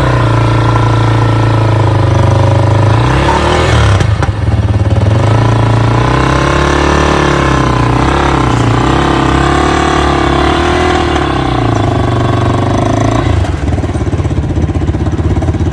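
Motorcycle engine running with the throttle worked on and off, the revs rising and falling several times as the bike is powered up the ramp onto a hitch carrier under its own engine.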